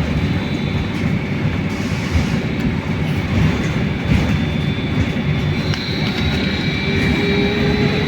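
Interior running noise of a Belkommunmash BKM-43300D trolleybus on the move: a steady low rumble from the road and body, with a thin high electric whine from the traction drive that fades out at the start and comes back about two-thirds of the way through.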